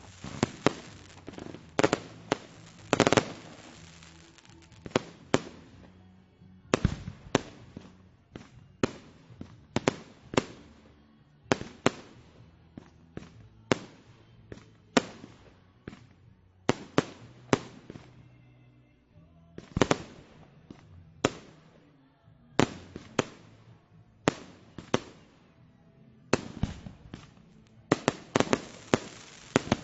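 Fireworks going off in a constant, irregular string of sharp bangs, many bunched in quick clusters, with a few short lulls between volleys.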